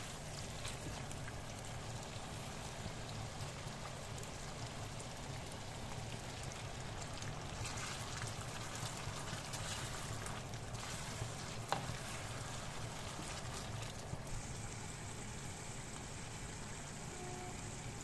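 Chicken pieces sizzling as they fry in oil and spice paste in a non-stick frying pan, a steady crackle over a low hum, with an occasional click of the spatula against the pan.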